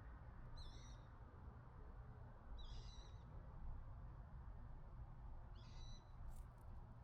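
A bird calling three times, each call a short, high, wavering note about two and a half seconds apart, over a faint low rumble of outdoor background noise.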